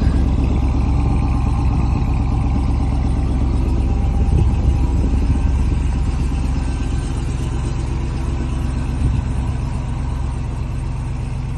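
Ram TRX's supercharged 6.2-litre Hemi V8 idling steadily after a cold start, slowly getting a little quieter.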